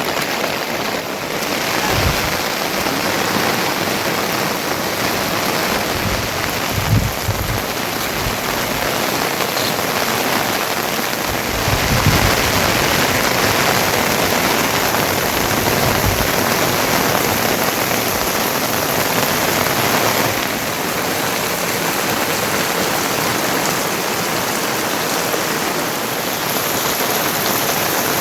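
Heavy rain falling steadily, with a few brief low thumps.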